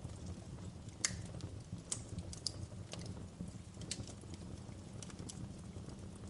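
Wood fire in a fireplace crackling: irregular sharp pops and snaps over a steady low rumble of the flames, the loudest pop about a second in.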